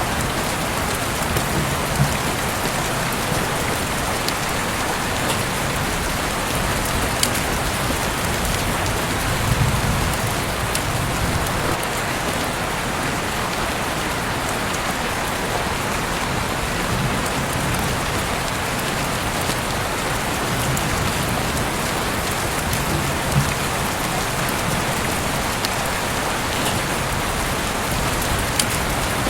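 Steady heavy rain pouring down, a dense even hiss with occasional sharper drop ticks and soft low rumbles.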